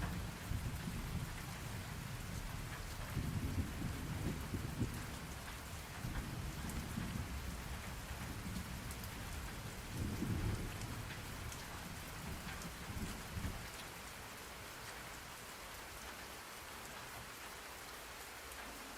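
Steady rain hiss with low rolling thunder that swells and fades several times, dying away about three-quarters of the way through, leaving only the rain.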